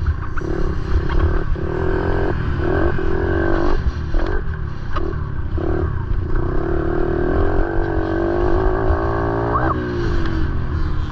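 Motorcycle engines running with a steady low rumble, one of them revving with a quick rise in pitch near the end.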